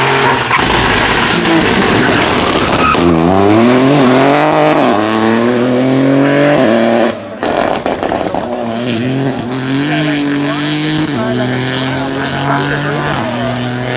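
Rally car engine under hard acceleration, its pitch climbing in steps as it changes up through the gears. About seven seconds in the engine note cuts off abruptly, then picks up again and climbs through further gear changes.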